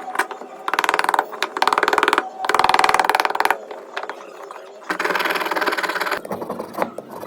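A small motorised tool runs in four short bursts, each with a fast buzzing rattle, as if pressed against metal and lifted off again.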